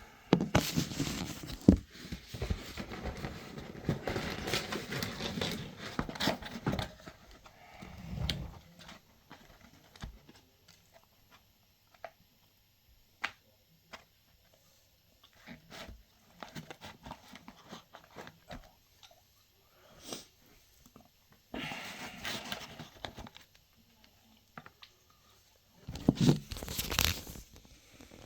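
Paper and cardboard fast-food packaging being handled and opened: rustling, crinkling and tearing in uneven bursts with quiet gaps, busiest in the first several seconds, with two louder bursts near the end.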